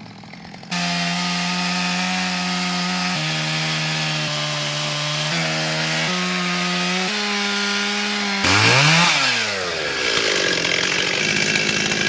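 Chainsaw running at steady throttle, its pitch stepping up and down a few times, then revving sharply up and back down after about eight seconds before cutting into wood with a rough rasping noise.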